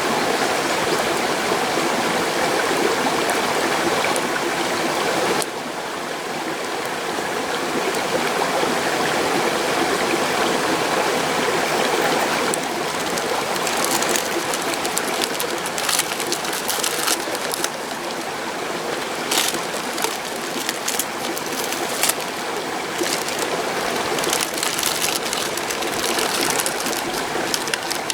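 Mountain stream rushing steadily, dropping a little in level about five seconds in. From about halfway, a scatter of short sharp clicks and crackles sits over the water.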